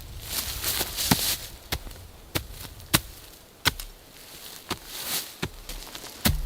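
Wood being chopped: a series of about nine sharp, short blows, roughly one every two-thirds of a second, with rustling between them.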